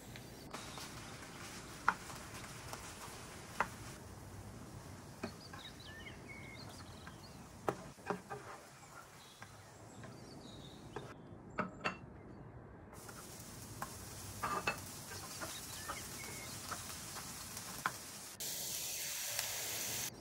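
Potato sticks sizzling in oil in a frying pan, with a spatula clicking and scraping against the pan every second or two. Near the end a louder, denser sizzle of chopped onions frying.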